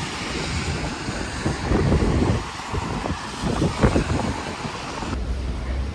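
Outdoor street noise with passing traffic and wind buffeting the microphone in irregular low gusts. The sound changes abruptly at the start and again about five seconds in.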